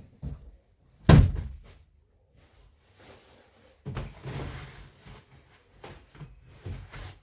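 A single loud thump about a second in, like something heavy set down or a door shutting, followed a few seconds later by a longer scuffing noise and a few lighter knocks.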